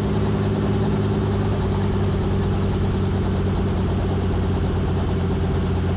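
Piston-engine helicopter at idle with the throttle chopped, a steady even hum during the shutdown cool-down before the engine is cut.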